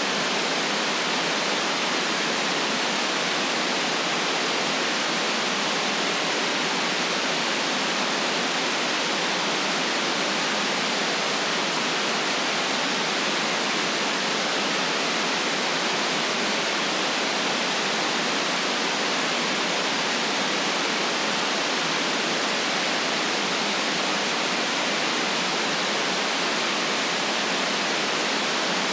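Steady synthetic white noise: an even, unchanging hiss, band-limited so there is little deep rumble or very high sizzle.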